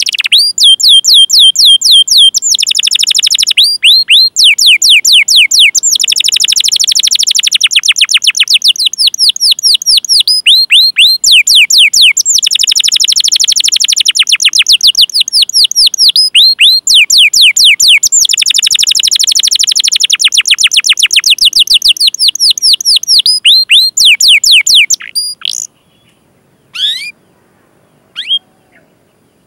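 Domestic canary singing a long, loud song of rapid, repeated down-sweeping chirps and rolled trills ('cuit cuit' and 'ngerol'). The song stops about 25 seconds in, and a few single short chirps follow.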